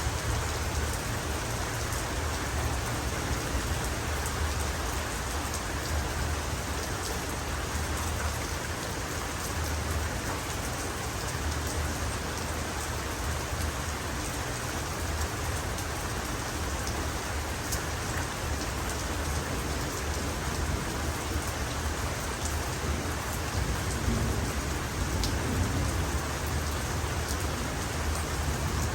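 Heavy rain falling steadily: an even hiss with fine drop ticks over a continuous low rumble.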